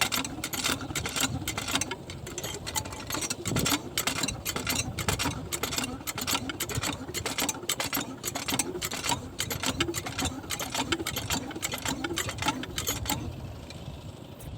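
Small diesel engine running with a rapid, even clatter. The sharp part of the clatter fades about a second before the end.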